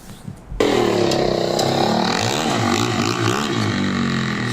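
Yamaha YZ450F dirt bike's single-cylinder four-stroke engine, coming in loudly about half a second in and revving, its pitch rising and falling repeatedly as the throttle is worked.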